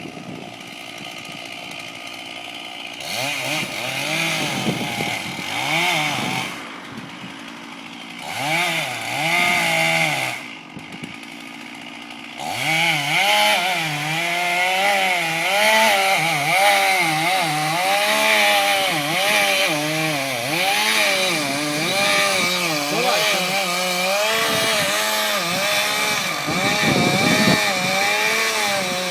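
Chainsaw felling a tree: it runs at low revs, is revved twice in short bursts, then goes into a long continuous cut, its engine pitch dipping and rising under load.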